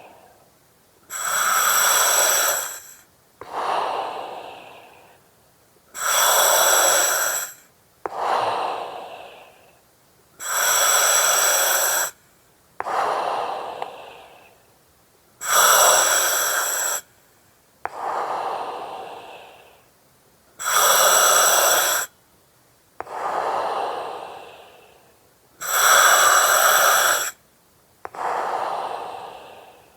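Slow, regular breathing through an oxygen mask, about six breaths. Each breath is a loud, even hiss of about two seconds with steady whistling tones through the mask's valve or regulator, followed by a softer breath that fades away.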